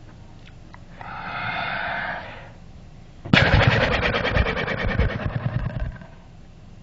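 A short pitched vocal sound, then a loud, rapid fluttering blow through loose lips, a horse-like snort that lasts about two and a half seconds.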